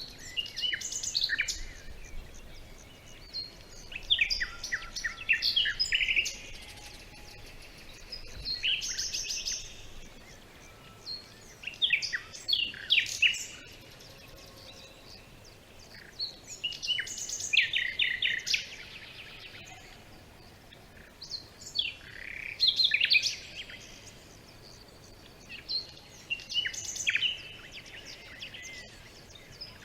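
A songbird singing short, quick phrases of high down-sweeping notes and trills, about seven of them, each a second or two long, every four to five seconds with quiet gaps between.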